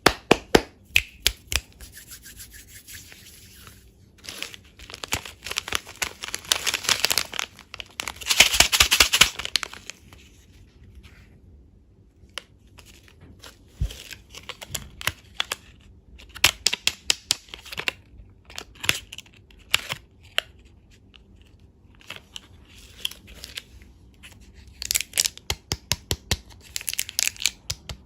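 Close-up crinkling and crackling of candy and dessert packaging, with many sharp clicks in irregular bursts. The crackling is densest about a quarter of the way in and again near the end.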